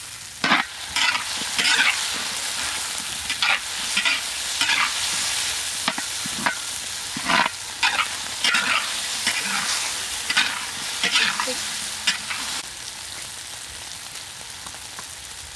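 Shallots and red curry paste sizzling in hot oil in a large metal wok, with a metal ladle scraping against the wok about every half second to a second as it stirs. The stirring stops near the end, leaving the sizzle on its own.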